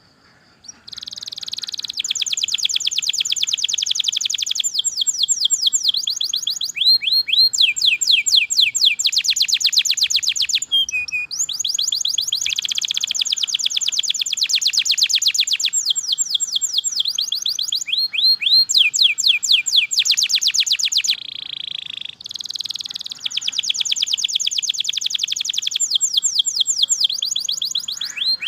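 Canary singing a long, continuous song of fast rolling trills and runs of repeated down-sweeping notes, switching phrase every second or two, with a brief break about a third of the way in. This is the steady, long-winded song of a 'gacor' canary used as a tutor recording for other canaries.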